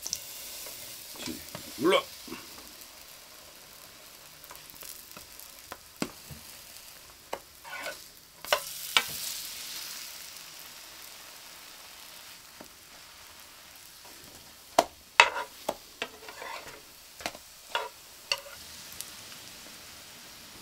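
Hotteok sizzling as they fry in oil in a nonstick frying pan. A slotted spatula scrapes and clicks against the pan as the pancakes are pressed flat and turned, with single clicks near 6 s and around 8 to 9 s and a run of clicks in the last third.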